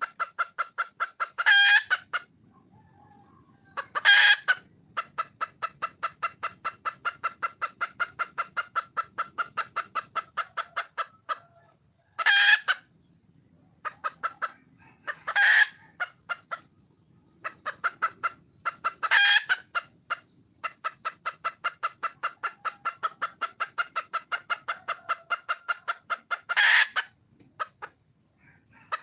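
Red junglefowl hen calling: long runs of rapid, even clucks, about four or five a second, broken every few seconds by a louder short squawk.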